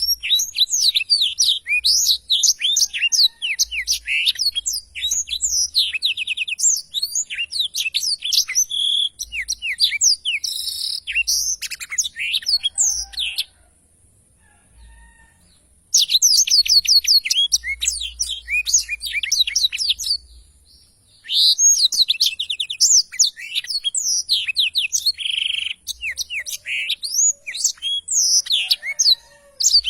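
Black-throated canary singing long, fast rolling phrases of high chirps and trills, pausing briefly about halfway through and again about two-thirds of the way in.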